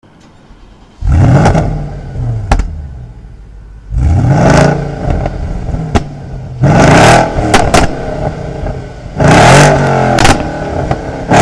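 Porsche Cayenne engine with a full aftermarket exhaust and a stage 2 pop-and-crackle tune, blipped about four times. Each rev rises and falls away, and sharp pops crack from the exhaust as the revs drop, which is the effect the crackle tune is meant to give.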